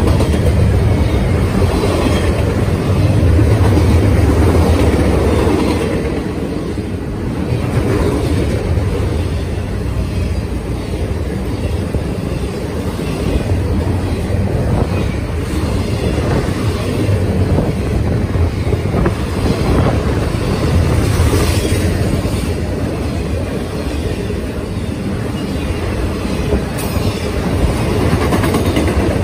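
Double-stack intermodal freight cars rolling past close by at speed: a loud, steady rumble of steel wheels on rail, with scattered clicks from the wheels and rising and falling slightly as the cars go by.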